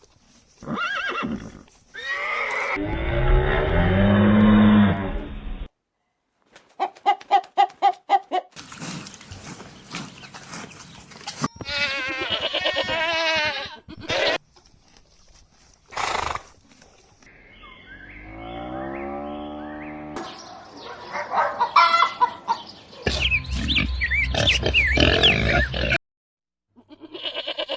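A quick succession of different farm animal calls cut one after another, about ten short clips, each starting and stopping abruptly. Bleats and other livestock calls are among them.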